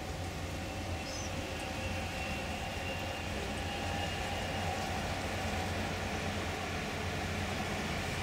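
Electric passenger train running along the far riverbank, a steady rumble carried across the water, with a faint high whine a couple of seconds in. Under it runs a constant low hum.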